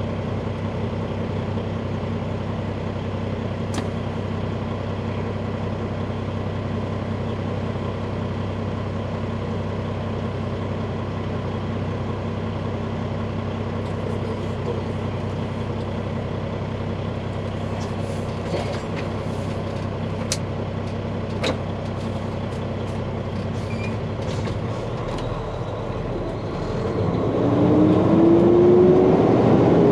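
Truck's diesel engine idling steadily while stopped, then accelerating near the end with a rising pitch and growing louder as the truck pulls away.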